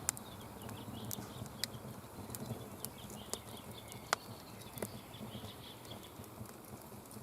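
Wood campfire crackling, with irregular sharp pops about once a second.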